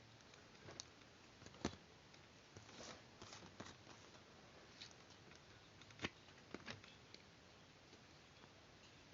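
Faint, irregular clicks and light taps from paper and small craft tools being handled, over a quiet hiss. The two sharpest clicks come just under two seconds in and about six seconds in.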